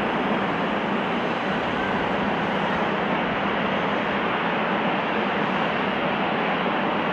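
Steady rushing roar of an Airbus A340-300 airliner's jet engines, coming in on a high-speed landing because its flaps are stuck.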